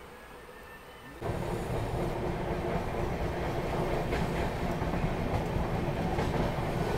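Express train coaches running at speed, heard from an open coach door: a steady rumble of wheels on rail mixed with rushing air, with a few faint rail-joint clicks. The sound is quieter for about the first second, then jumps suddenly louder.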